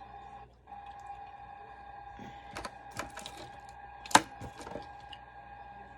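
A few sharp clicks and knocks of objects being handled, the loudest a single knock about four seconds in, over a steady thin hum.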